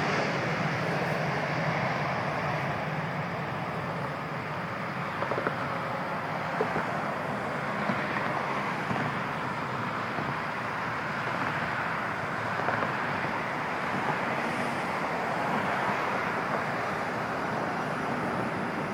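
Steady, distant jet noise from a Boeing 777-300ER's GE90 turbofan engines after it has passed on landing, easing off a little over the first few seconds and then holding level.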